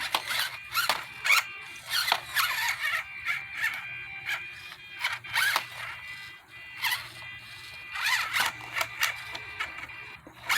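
Small electric drive motor and gears of a 1/24-scale Enduro24 Sendero RC crawler whining in short bursts of throttle, its pitch rising and falling, with clicks and scrapes of the tyres on rock as it tries to climb a slippery rock.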